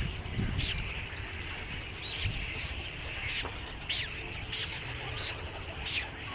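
Birds chirping: a string of short, sharp chirps every half second to second over a steady chatter of many birds, with a low rumble underneath.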